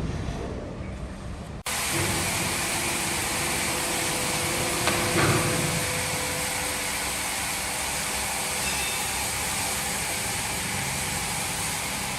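Steady running noise of woodworking-plant machinery, starting abruptly at a cut about a second and a half in, with a brief louder knock about five seconds in.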